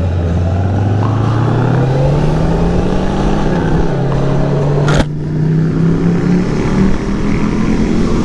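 Motorcycle engine pulling away and accelerating, its pitch climbing steadily, dropping at an upshift about four seconds in, then climbing again toward another shift near the end. A single sharp click sounds about five seconds in.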